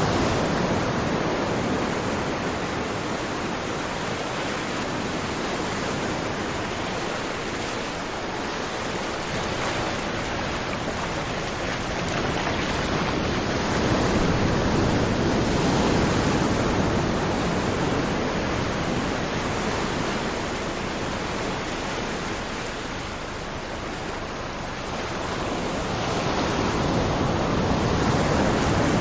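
Ocean waves breaking and washing on a shore, a continuous rush of surf that swells and fades slowly, louder about a third of the way in and again near the end.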